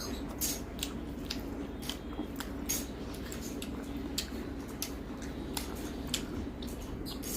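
Soft squishing and small wet clicks of eating by hand: rice and greens stalks being mixed and chewed, over a steady low hum.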